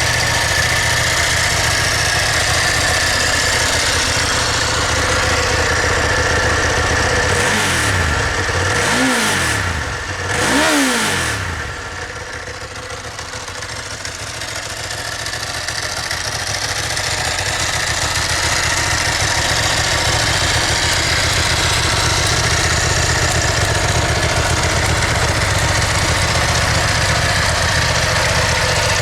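Ducati ST4S L-twin engine idling through its stock exhaust, with two quick throttle blips a little under halfway through, each rising and falling back to idle, and the sound briefly quieter afterwards.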